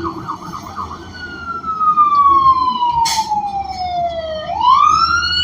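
Emergency vehicle's electronic siren, loud from inside a bus: a fast yelp for about the first second, then a slow wail that falls steadily and sweeps back up near the end. A short knock about three seconds in.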